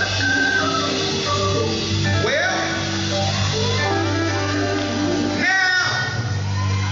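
A band playing, with guitar over a steady bass line, and voices coming in with short sung phrases that swoop in pitch about two seconds in and again near the end.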